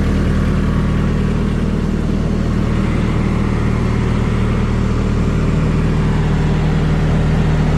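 Diesel engine running steadily at constant speed, a low even hum that does not change.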